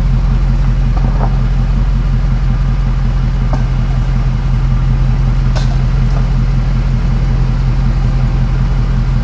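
Car engine idling steadily with an even, low drone, under the light load of creeping forward a few inches at a time. A few faint clicks or knocks come through now and then.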